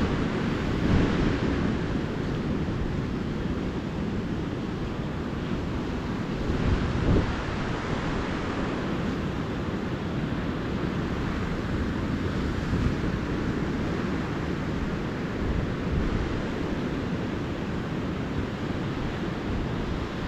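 Calm ocean surf washing onto a beach, a steady rushing wash that swells a little every few seconds, with low wind rumble on the microphone.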